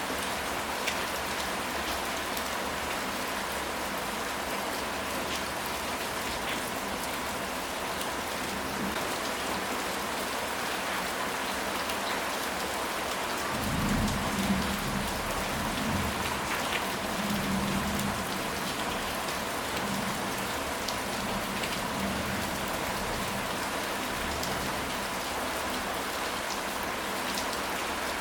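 Steady rain falling and pattering on surfaces, an even hiss throughout. About halfway through, a low rumble of distant thunder rolls for a few seconds and then fades.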